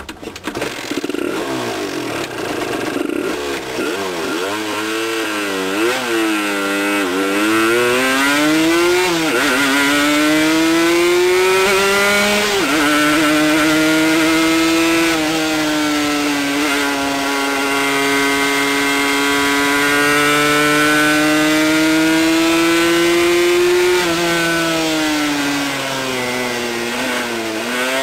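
Suzuki RG125γ's 125 cc two-stroke single-cylinder engine revving: a few short blips of the throttle, then held at high revs for long stretches, dropping back briefly about 12 seconds in and again about 24 seconds in before climbing once more.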